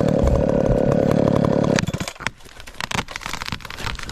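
Chainsaw running steadily at high speed, shutting off suddenly a little under two seconds in, followed by scattered light knocks and clatter.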